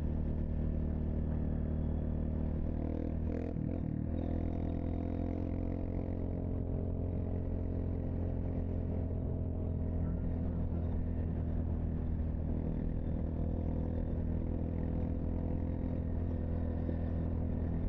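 Steady drone of a vehicle's engine and road noise at a constant cruising speed, with a brief clatter about three to four seconds in.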